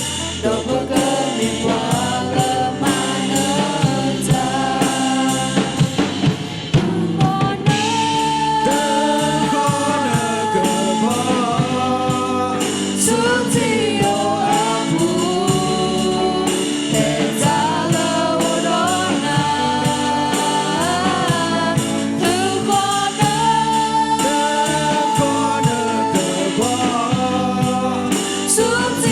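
A group singing a gospel hymn with instruments and a steady drum beat.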